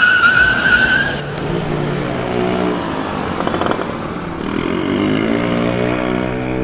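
Vehicle engine revving up, its pitch climbing over several seconds, as the truck race starts. A high wavering tone fades out about a second in.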